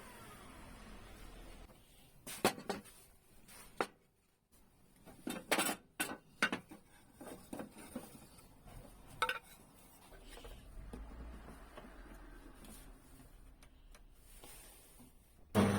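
Scattered light clinks and knocks from handling things on a woodworking bench, about a dozen spread over several seconds. A power tool starts up with a rising whine at the very end.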